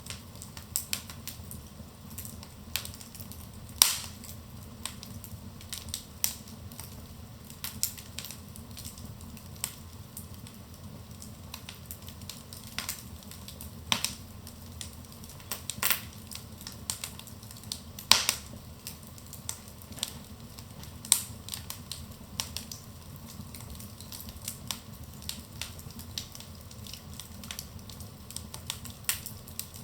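Wood fire burning in a fireplace, crackling with irregular sharp pops and snaps over a low steady rumble of the flames; a handful of louder pops stand out, the loudest about 18 seconds in.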